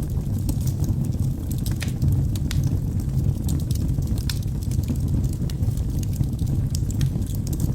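Wood fire burning in a fireplace: a steady low rumble of flames with many scattered sharp crackles and pops from the burning logs.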